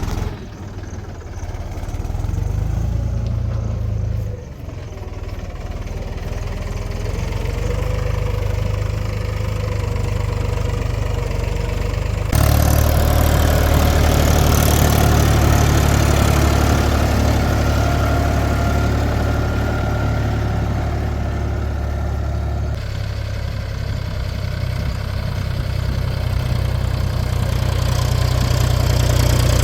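Heavy diesel engine of earth-moving machinery running steadily with a low hum. The sound turns abruptly louder about twelve seconds in and drops back about ten seconds later.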